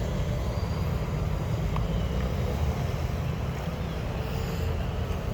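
Steady low rumble of wind on the microphone, with a motorcycle engine running faintly underneath.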